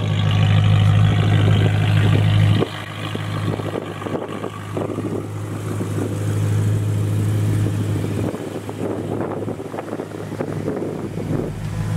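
BMW E90 M3's V8, fitted with an IPE exhaust, idling with a steady low drone. The drone drops sharply in level about two and a half seconds in and carries on more quietly.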